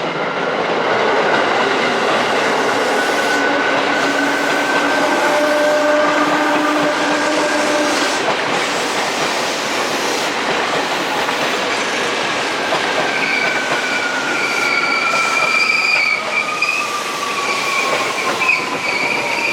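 Seibu 2000 series electric train pulling into a station platform: a steady running rumble, with a motor whine that falls in pitch from about two-thirds of the way in as the train brakes. High brake squeal comes in over the last several seconds as it slows to a stop.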